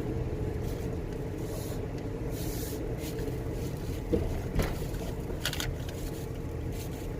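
Nissan X-Trail SUV on the move: a steady low engine and road rumble, with a few short knocks and rattles in the second half.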